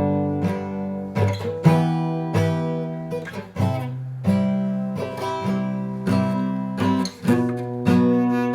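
Acoustic guitar strumming chords at a steady pace, each chord ringing on until the next strum, as an instrumental stretch between sung verses.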